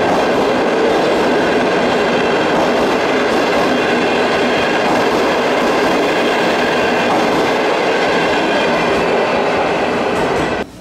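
Passenger train coaches running past at speed on the rails, a steady loud rushing noise that cuts off suddenly near the end.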